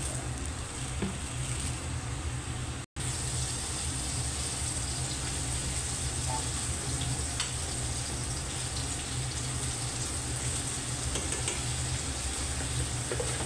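Chicken pieces frying in oil in a pan: a steady sizzle, cut out for a split second about three seconds in.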